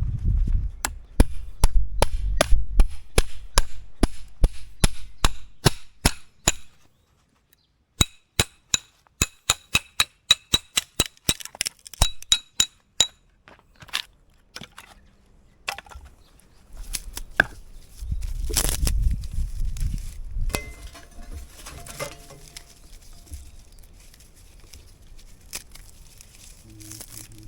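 Repeated sharp strikes, about three a second, in two runs with a short pause between; in the second run each strike rings like metal. Scattered softer knocks and rustling follow.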